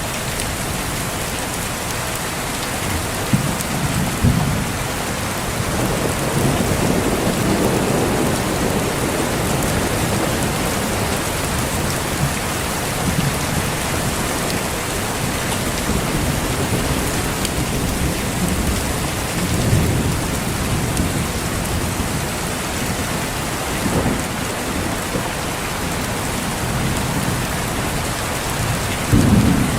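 Steady heavy rain falling, with low rolls of thunder rumbling in and out several times.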